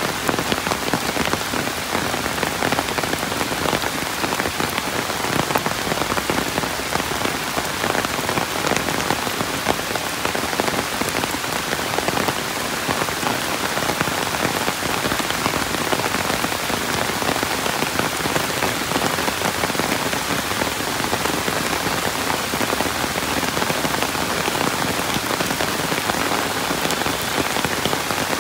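Steady rain falling, a dense, even hiss of many drops striking surfaces, with no change in strength.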